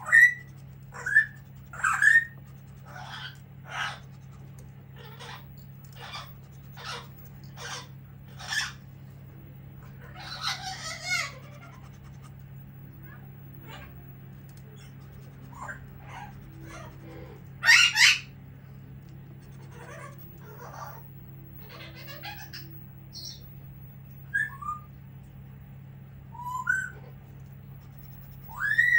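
A pet bird calling loudly: short rising whistles, repeated in groups, and a pair of sharp screeches about two-thirds of the way through.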